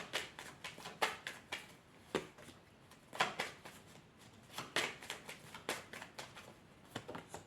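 Oracle cards being handled and shuffled: a scatter of quick, sharp papery clicks and slaps at irregular intervals.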